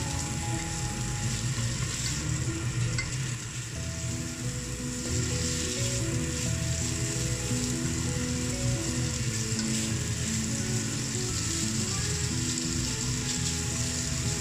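Minced pork and sliced onion sizzling in a nonstick frying pan while a slotted spatula stirs and breaks up the meat. Background music with a simple melody of held notes plays underneath.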